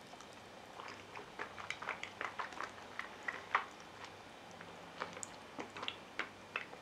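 Mouth sounds of eating a spoonful of soft baked egg pudding: faint, irregular wet clicks and smacks of chewing and lips, from about a second in until near the end.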